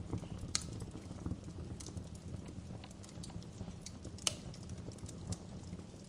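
Fire burning in a fireplace, crackling with irregular sharp pops over a low steady rumble. The two loudest pops come about half a second in and a little past four seconds.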